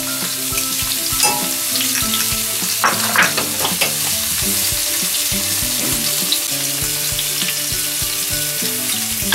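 Minced garlic sizzling steadily in hot sesame oil in a small stainless steel saucepan: the early stage of frying the garlic until it turns light golden.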